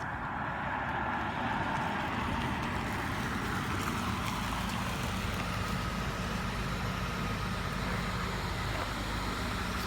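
Motorcycle engine running steadily, rising slightly in level over the first second or so, then holding.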